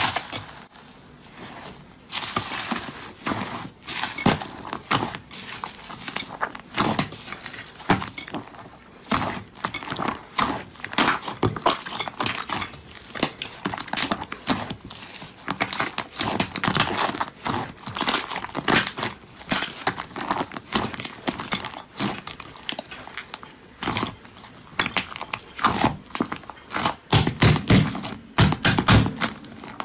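Slime being squeezed, poked and stretched by hand, giving a dense run of irregular sticky clicks and crackles, with a few heavier squelching thumps near the end.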